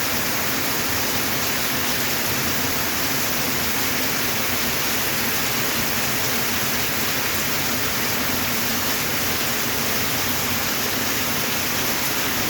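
Heavy monsoon rain falling steadily, an even hiss with no breaks.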